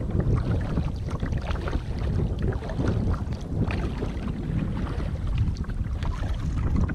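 Strong wind buffeting the GoPro microphone in a gusty rumble, with small splashes of water around a kayak.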